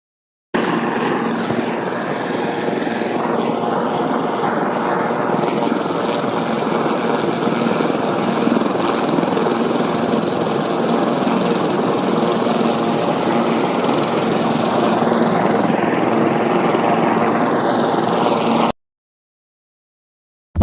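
Helicopter rotor and engine running steadily, starting abruptly about half a second in and cutting off sharply near the end.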